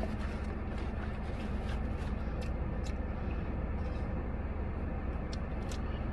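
Steady low hum of a car cabin with its engine or ventilation running, with scattered small wet clicks of chewing and lip smacking as food is eaten.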